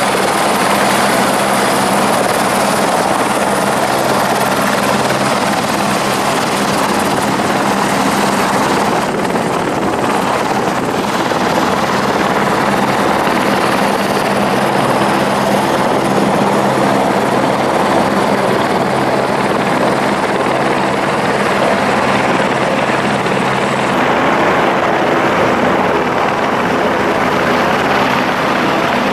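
Steady, loud helicopter drone in flight: engine and rotor hum under a continuous rush of air noise.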